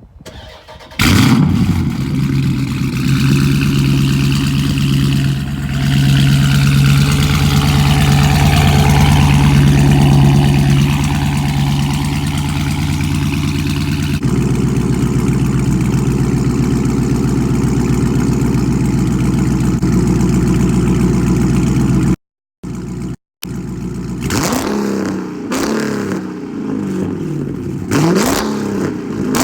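Dodge Charger Scat Pack's 6.4-litre HEMI V8 on straight pipes with gutted catalytic converters, starting about a second in and settling into a loud, steady idle that drops to a lower idle about halfway through. The engine is revved up and down several times near the end.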